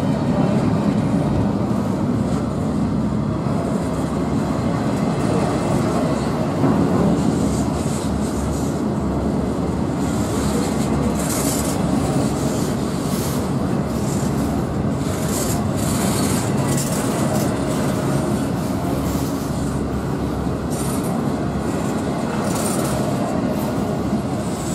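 Freight train cars rolling past on the rails with a steady rumble. From about ten seconds in, brief high-pitched squeals or hisses from the wheels come and go.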